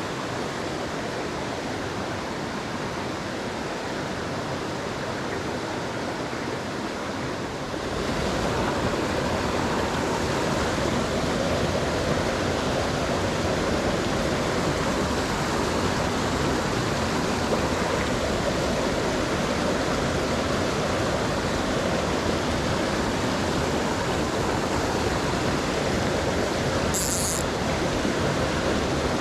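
Mountain stream water rushing over rocks, a steady wash that gets louder and fuller about eight seconds in. A brief high sound near the end.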